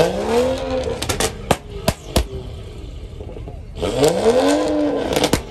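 A car engine revved twice, each rev rising and then falling in pitch over about a second, with several sharp cracks in between.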